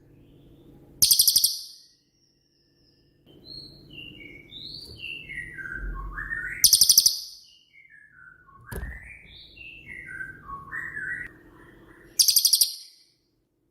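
A cililin songbird singing in its typical rapid-fire 'tembakan' style. Three short, loud, very high rattling trills come about five and a half seconds apart, and between them runs of clear whistled notes step downward in pitch.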